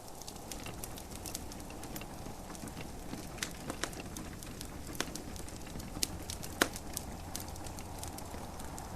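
Wood fire in a fireplace crackling, with irregular sharp pops and snaps, one louder pop about two-thirds of the way in, over a steady soft hiss of gentle rain.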